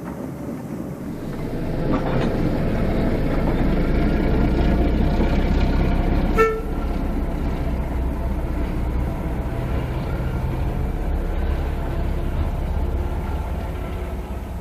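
Diesel locomotive engine sound running steadily and building up about two seconds in, with one short horn toot a little after six seconds.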